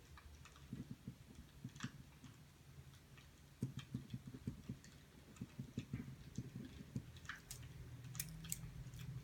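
Burning firewood crackling softly, with scattered sharp pops that come more often in the second half.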